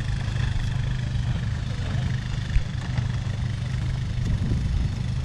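Steady low hum of a vehicle engine idling in street traffic, with a single brief knock about two and a half seconds in.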